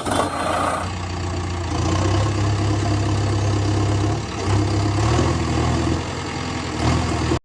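Heavy truck engine idling steadily, a low hum that wavers a little in pitch and cuts off abruptly near the end.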